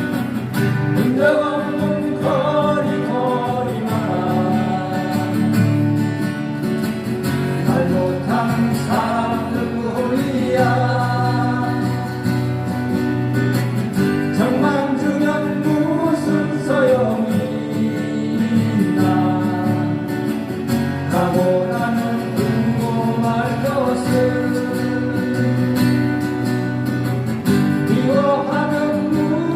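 Live song played through a PA: strummed acoustic guitars accompanying a singer.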